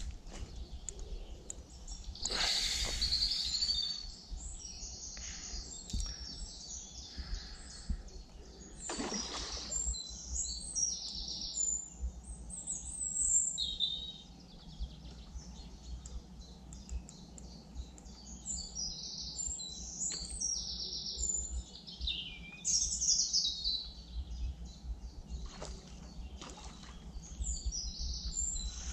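Songbirds chirping and singing in many short high calls and trills. There are two brief rushing noises, about two and nine seconds in.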